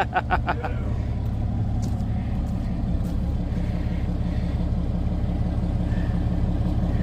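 Cummins inline-six turbo diesel in a Dodge pickup idling through straight vertical exhaust stacks, a steady deep rumble. It opens with a quick run of even pulses that dies away within the first second.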